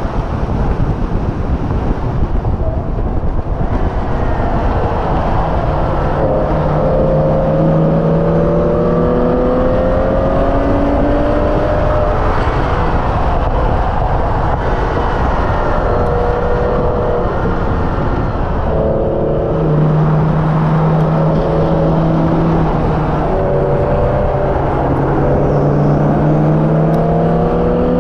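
Hyundai Elantra N's turbocharged 2.0-litre four-cylinder engine at speed on a race track, revs climbing steadily down the straights and falling away about three seconds in and again near the middle before pulling up once more. A constant rush of wind and tyre noise runs underneath.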